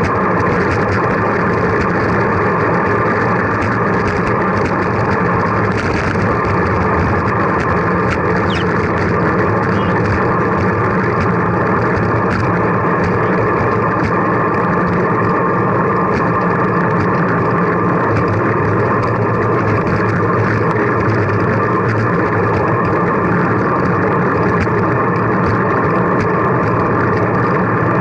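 Steady wind and road noise while riding along on a bicycle, an even, unbroken rush with no distinct events.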